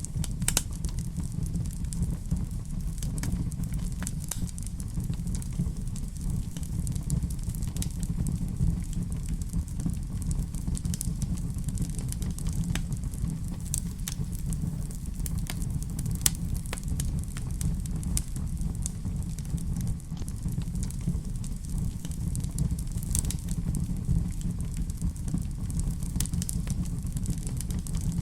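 Wood fire burning in a fireplace: irregular sharp crackles and pops over a low, steady rumble.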